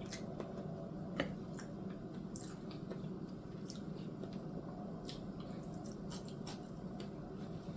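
Someone chewing pan-seared asparagus, with faint scattered clicks and smacks of mouth and fork.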